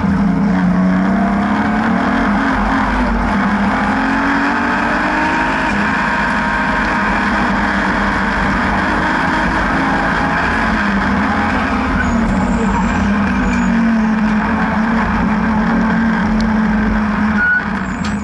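BMW N52B30 3.0-litre naturally aspirated straight-six pulling hard at track speed, its note rising and falling with throttle and gear, over road and wind rumble. It briefly drops off near the end, as on a lift or gear change.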